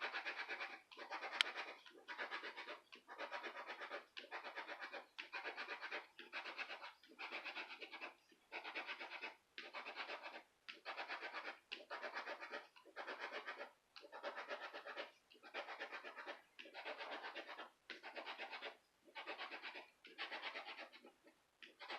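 Scratch-off lottery ticket being scratched: repeated scraping strokes, about one a second, each a rapid rasp across the coating.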